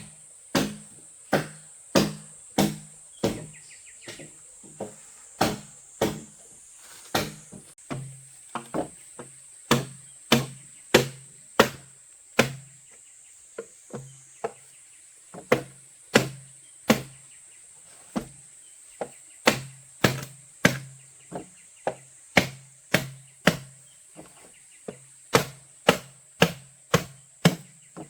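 A tool striking bamboo over and over, a little under two blows a second with a brief pause here and there, each blow a sharp crack with a short low thump. A steady high insect drone runs underneath.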